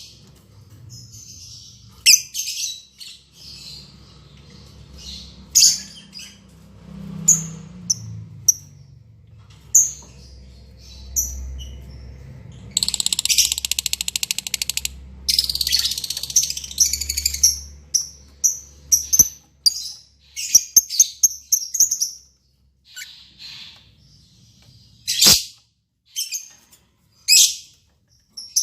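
Lovebirds giving shrill, high-pitched chirps and squawks in short bursts, thickest in a dense run through the middle, with a single sharp click near the end.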